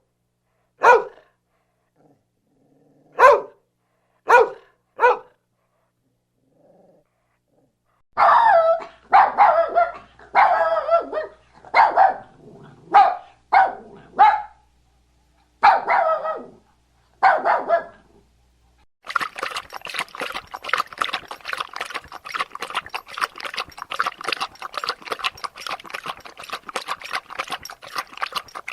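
Dog barking: four single barks in the first five seconds, then a run of about ten louder, rougher barks from about eight seconds in. About nineteen seconds in, a different dense, rapid crackling sound takes over.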